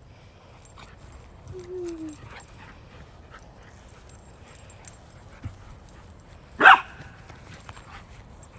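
Pet dog playing: a brief low whine near two seconds in, then one short, loud bark about two-thirds of the way through.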